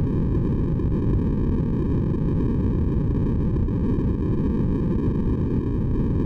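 Steady synthesized white noise for sleep, an even hiss heaviest in the low end, with no changes or breaks.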